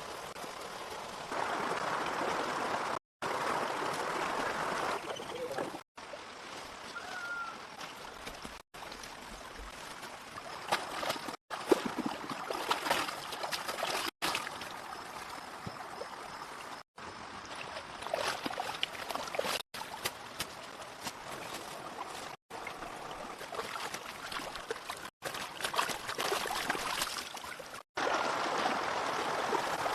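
Running, trickling water as a steady hiss, broken off by short silent cuts every few seconds, with scattered sharp knocks here and there.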